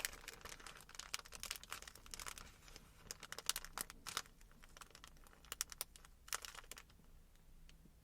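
Crinkling and crackling as the glove that comes packed in a gouache paint set is handled, in quick irregular crackles that grow sparser toward the end.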